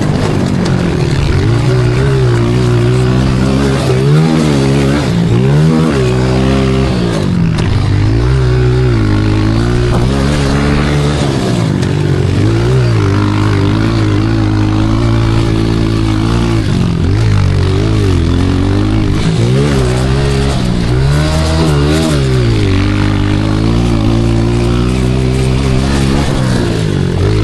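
Pit bike's small single-cylinder engine under riding load, revving up and dropping back over and over as the throttle is worked and gears change.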